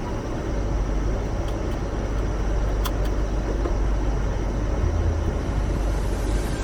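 Steady low rumble of a car running, heard from inside the cabin, with one sharp click about three seconds in.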